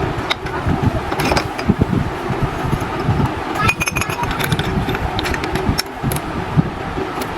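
Motorcycle engine running steadily, with scattered metallic clicks and clinks over it.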